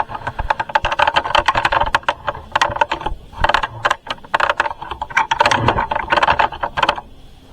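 Busy crackling and rattling handling noise, many quick clicks in clusters with two short pauses, as a load of laundry is handled ready for the washing machine.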